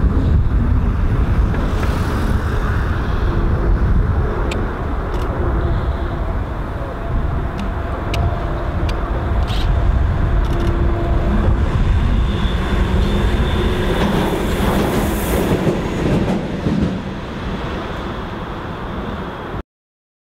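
A train running along the tracks: a steady low rumble with scattered sharp clicks of wheels over rail joints and points, and faint steady tones. The sound cuts off abruptly near the end.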